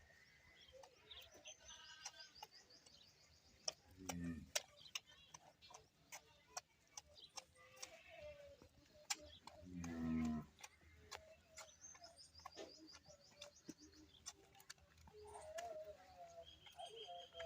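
Cattle mooing twice, short low calls that fall in pitch, about four seconds in and again about ten seconds in. Small birds trill in quick repeated notes, and sharp clicks come here and there.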